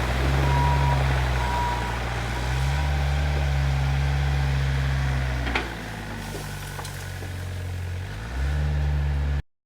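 Volvo ECR88 excavator's diesel engine running, its pitch shifting up and down with load, with two beeps of a travel alarm in the first two seconds. A sharp knock comes about five and a half seconds in, the engine then runs quieter until it picks up again near the end, and the sound cuts off abruptly.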